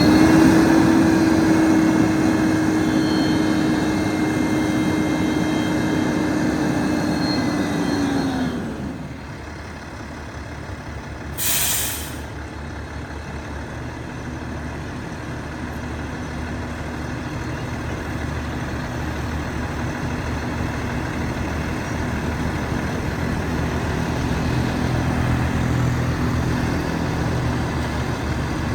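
Diesel engine of a 2011 Kenworth T800 roll-off truck held at raised revs for about eight seconds, then dropping back to a steady idle. A few seconds after the drop comes a short hiss of released air from the truck's air system.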